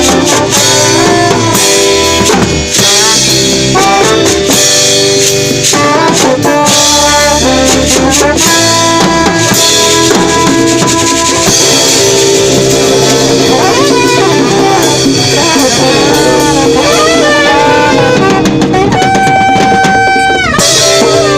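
A reggae band playing an instrumental passage: drum kit and bass under a bending lead melody line, which ends in one long held note near the end.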